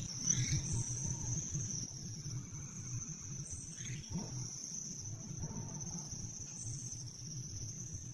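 Insects chirring in one steady, unbroken high-pitched drone, over a low rumble.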